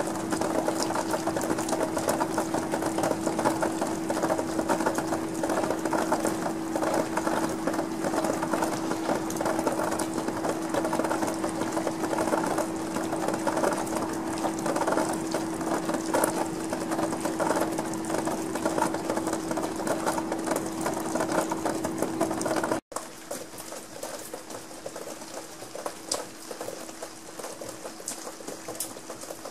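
Rain pattering densely, with a steady hum underneath. About three quarters of the way through the sound cuts out for an instant, then carries on noticeably quieter.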